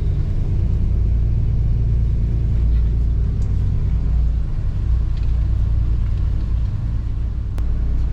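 A small boat's outboard motor running steadily at cruising speed, a low, even engine sound.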